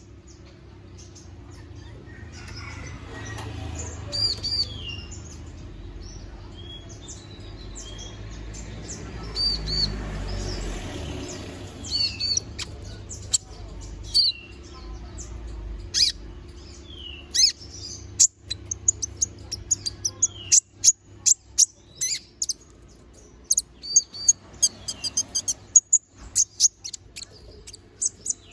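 Kolibri ninja (konin), a small sunbird, singing in a rapid, sharp, high-pitched string of chirps and short down-slurred notes, growing busier in the second half. A low rumble of background noise sits under the first half.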